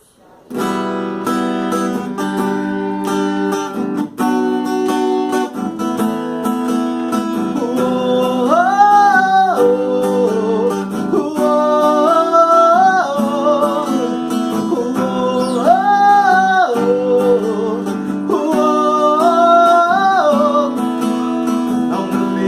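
Acoustic guitar playing chords, joined about eight seconds in by a wordless vocal melody in four rising-and-falling held phrases.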